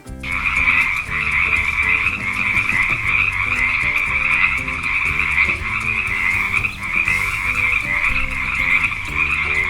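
Frogs croaking in an unbroken chorus, a steady high-pitched trilling that starts just after the beginning.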